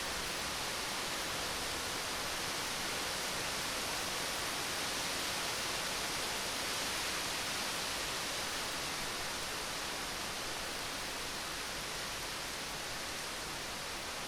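Rain from a rainstorm falling steadily, an even hiss with no thunder heard.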